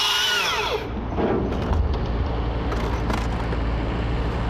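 Husqvarna T542i XP battery chainsaw running at full speed with a high whine that falls away within the first second as the trigger is released. A steady low rumble continues afterwards.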